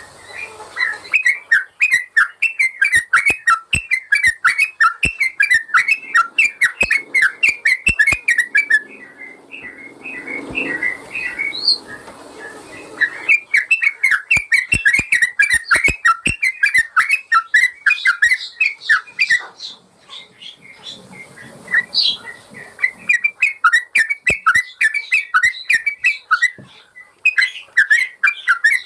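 Yellow-vented bulbul (trucukan) singing: fast runs of bubbly, whistled chattering notes in three long bursts, with short pauses about nine and twenty seconds in. Sharp clicks are mixed in with the song.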